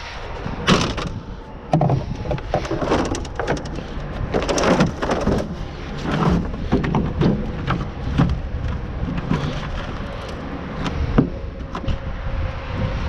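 Irregular knocks, clatter and scraping of scrap and junk being handled in a dumpster, with wind rumbling on the microphone.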